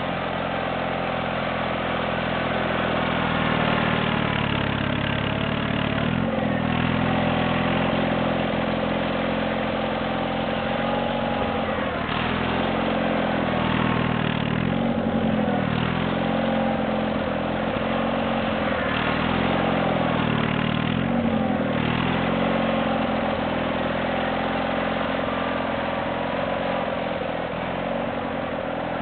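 Ariens GT17 garden tractor engine running continuously while plowing snow, its pitch dipping and rising again several times as the load comes and goes.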